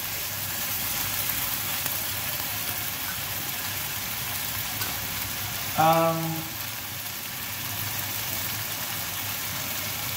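Beef curry frying in a nonstick wok: a steady sizzle, with stirring at first. A short pitched vocal sound cuts in once about six seconds in.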